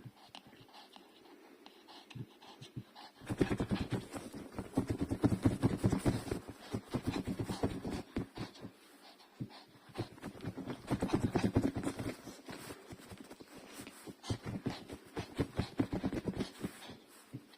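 Biewer terrier digging in fear of thunder: rapid scratching and pawing in two long frantic bursts, the first starting about three seconds in and the second about ten seconds in.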